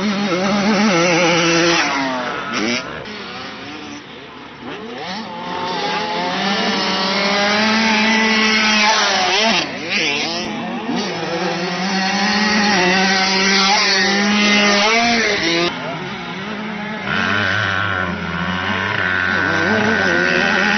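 Several motocross motorcycles running on a track, their engines revving up and down and overlapping as the bikes accelerate and back off.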